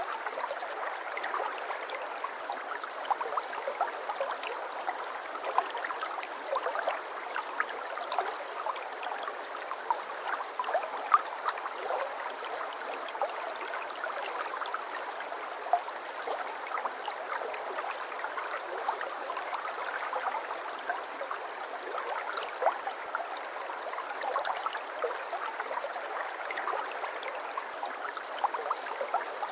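Small shallow brook babbling steadily, with a continual gurgle and many small irregular plinks and splashes of water over stones.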